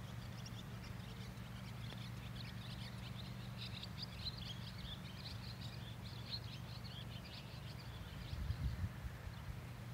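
Birds chirping, many quick irregular high chirps that are thickest in the middle, over a low steady hum.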